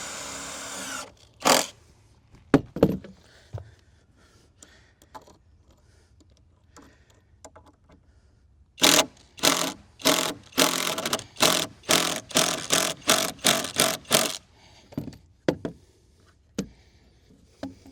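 Power drill driving a screw into decking wood, the trigger squeezed in short pulses about twice a second for several seconds. A brief run of the drill and a few knocks on wood come near the start.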